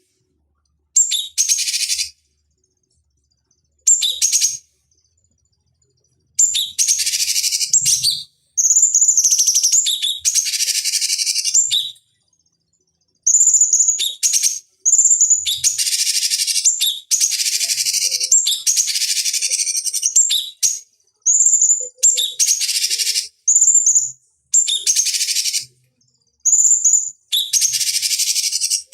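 Cucak cungkok (grey-cheeked bulbul) singing in repeated bursts of high, rapid chattering song. Many phrases open with a clear whistle, and there are short silences between the bursts.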